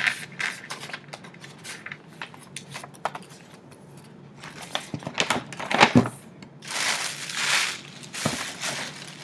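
Paper crinkling and rustling in handling, with scattered clicks and taps, and longer bursts of rustling about two-thirds of the way through as gift wrapping is handled.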